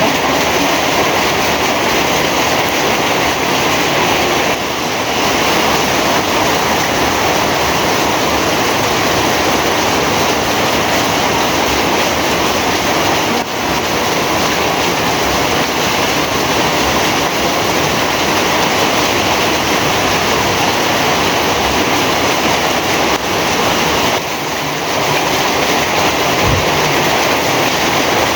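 Heavy rain falling steadily as a dense, even wash of sound, dipping briefly in loudness a few times.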